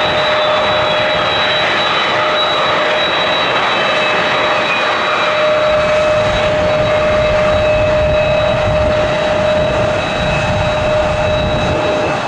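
Airliner engines running with a steady high whine over a roar. A deeper rumble builds about halfway through.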